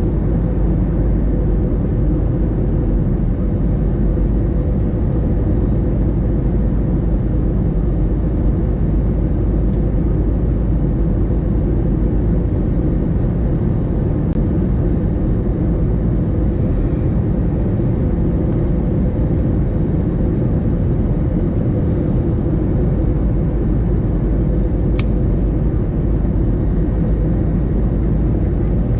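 Airbus A321 cabin noise in flight: a steady low roar of engines and airflow with a faint constant hum, unchanging throughout.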